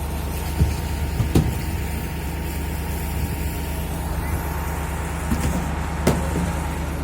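Boat engine running steadily with a low drone, with a few short knocks about a second in and again near the end.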